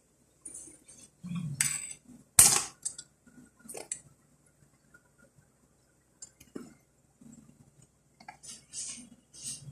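Cooking utensil clinking, knocking and scraping against a pot while onion, garlic and ginger are sautéed: a handful of separate strikes and short scrapes with quiet gaps between them, the loudest a sharp knock about two and a half seconds in.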